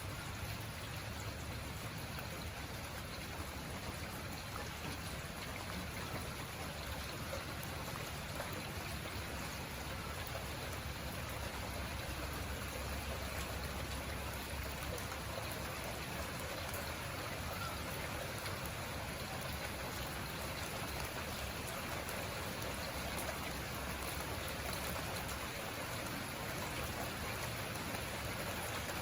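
Rain falling steadily, a constant even hiss of drops with no break.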